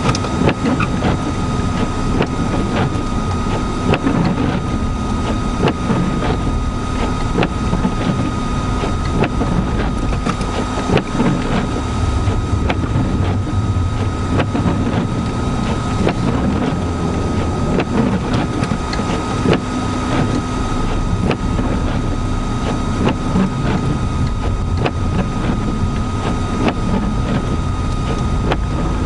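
Steady vehicle noise while driving in a blizzard: a low rumble from the engine and tyres with wind noise over it, a thin steady whine, and scattered light ticks.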